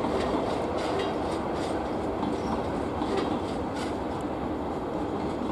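Trenord double-deck commuter train passing at speed: a steady rumble of wheels on rail, with regular clicks as the wheels cross rail joints. The rumble eases slightly as the last coach goes by.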